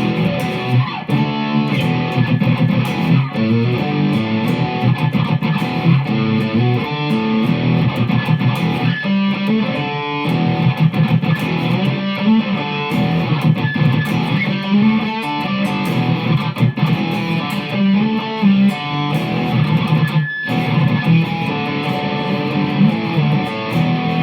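Electric guitar played solo, a continuous run of picked and strummed notes changing pitch, with a brief break about twenty seconds in.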